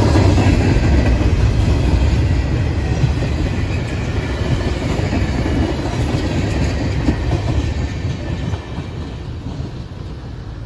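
Freight train cars rolling past on the track, a heavy rumble of steel wheels on rail with occasional clicks. It fades over the last few seconds as the end of the train goes by.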